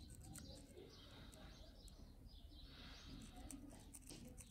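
Near silence: faint background hum with a few distant bird chirps.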